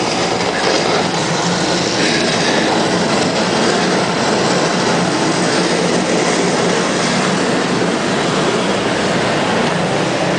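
Bulldozers working on beach sand: diesel engines and steel tracks running in a steady, unbroken noise.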